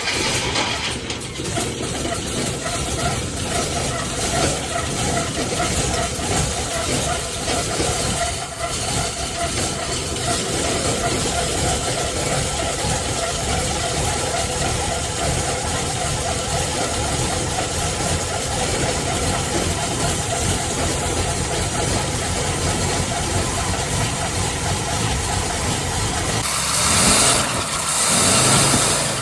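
1941 Packard engine running just after being started, with the drive belt squealing over it; the squeal is the belt, not the bearings or anything serious. The sound briefly gets louder near the end.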